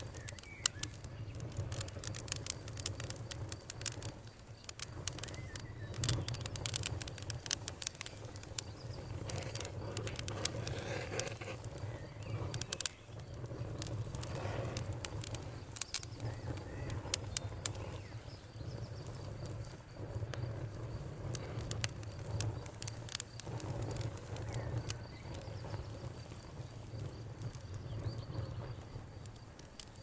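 Wood fire crackling, with frequent sharp pops over a low steady rumble of burning. Crickets chirp faintly and steadily behind it, becoming clearer about halfway through.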